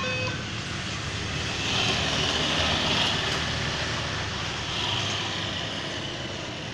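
KA Kaligung passenger train running through a level crossing: a steady rumble and rushing rail noise that swells twice. The end of a long pitched horn blast cuts off right at the start.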